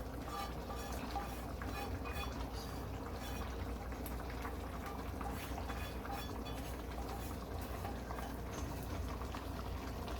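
Pot of coconut rice boiling on the stove: a steady bubbling with many small pops as the cooking liquid reduces.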